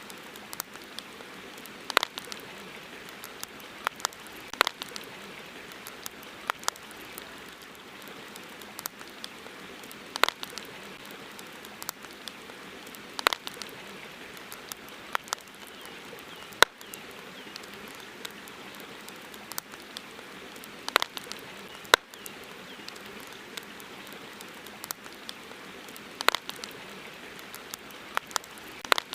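Campfire crackling, with irregular sharp pops from the burning wood every few seconds, over a steady hiss of flowing river water.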